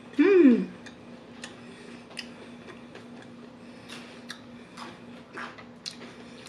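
A person eating crispy fried chicken: a short, loud hummed "mm" that rises and falls about a quarter second in, then scattered wet mouth clicks from chewing with the mouth closed, over a faint steady hum.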